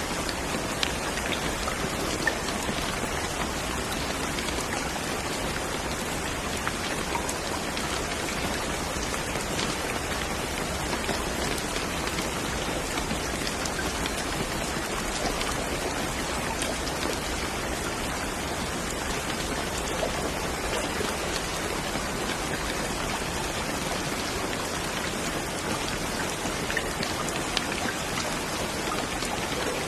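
Steady rain falling, a constant hiss with scattered drop ticks on a surface.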